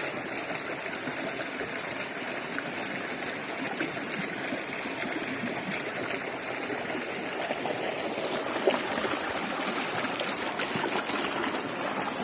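Water running steadily in a flowing stream, a continuous even rushing.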